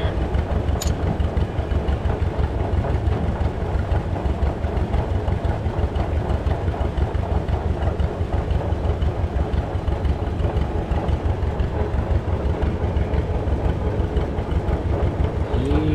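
An engine idling steadily with a fast, even low pulsing.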